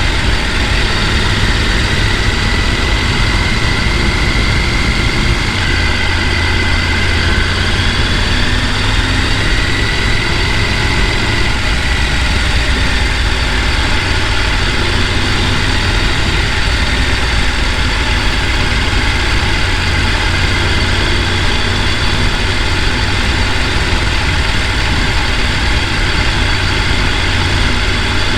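Rushing mountain stream: a loud, steady roar of water over rocks, with a deep rumble, unchanging throughout.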